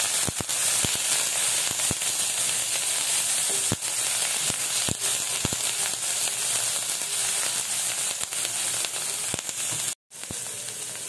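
Onion and garlic paste frying in hot soybean oil in a nonstick frying pan: a steady sizzle with scattered sharp pops and clicks as a spatula stirs it. The sound breaks off for a split second near the end and resumes slightly quieter.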